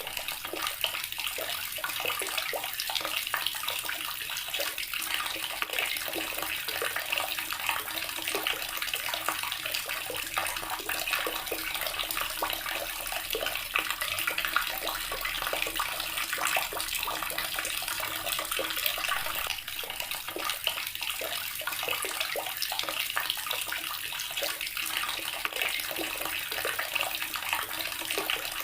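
Water running steadily from a tap, a continuous splashing stream.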